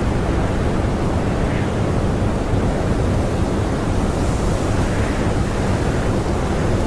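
Blizzard wind blowing hard and steadily, a dense rushing noise heaviest in the low end, with slight swells in the hiss a few times.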